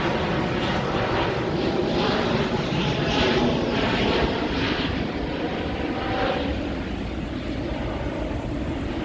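Twin-engine Boeing 777-200ER jet airliner passing on its landing approach: a steady rushing jet roar that swells to its loudest about three to four seconds in, then slowly fades.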